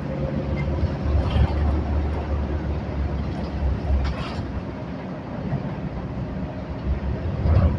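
Steady low rumble of a moving vehicle, with a few brief swishes.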